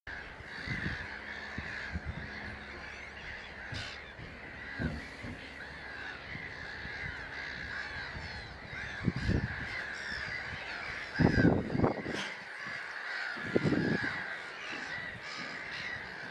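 A large flock of gulls calling continuously, many harsh overlapping calls at once. A few low thumps come through in the second half.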